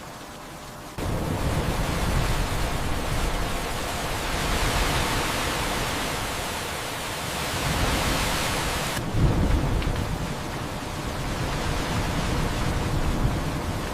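Heavy rain and thunder. The rain steps up suddenly about a second in, its hiss is strongest in the middle, and a deep thunder rumble swells after an abrupt change near the nine-second mark.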